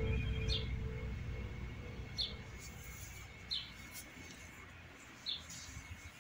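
Background music fading out over the first second or so, and a bird chirping a short, high, slightly falling note four times, every second or two.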